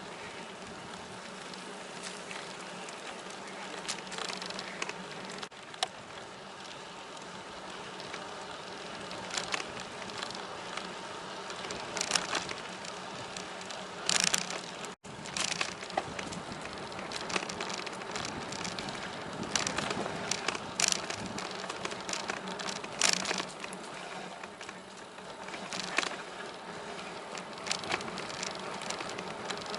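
Bicycle in motion on a paved trail: a steady buzzing hum of tyres and drivetrain, with scattered brief sharp ticks and a momentary dropout about halfway through.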